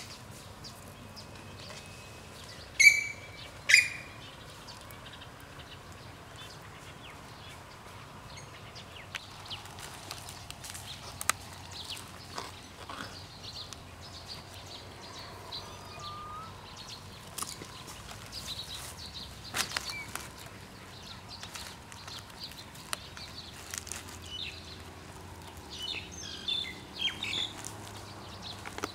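Two short, loud bird calls about three and four seconds in, over scattered crackles and clicks of banana leaves and banana stem being handled and wrapped, with fainter chirps near the end.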